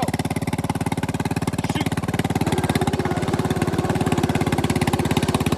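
Bolens mower engine running steadily through a homemade exhaust, with a fast, even exhaust beat.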